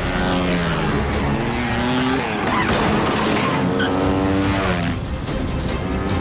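Motorcycle engine revving hard, its pitch rising and falling several times, with tyres skidding.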